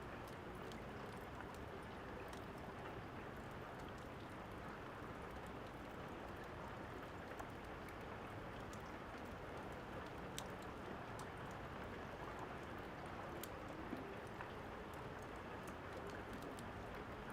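Steady rain hissing evenly, with scattered sharp crackles and pops of a fireplace over it.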